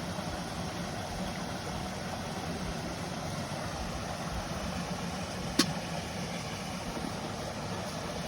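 Mountain stream rushing steadily, with a single sharp crack from the wood fire about five and a half seconds in.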